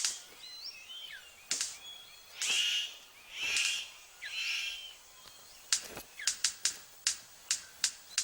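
Male superb bird of paradise courtship display: four harsh, hissing bursts about a second apart, then a quick run of sharp clicks, several a second, from a little before halfway. Thin chirps of other forest birds run underneath.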